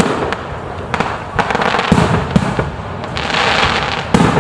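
Aerial fireworks bursting in quick succession: several sharp booms, with a dense stretch of crackling in the middle.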